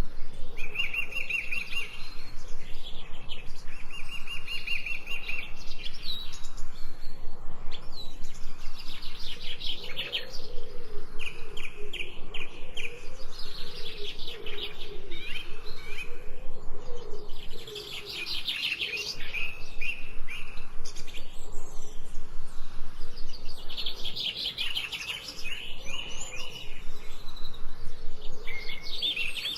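Several songbirds chirping and singing in a forest chorus, with repeated rapid trills and quick chirps. A lower, wavering call runs beneath them for several seconds midway.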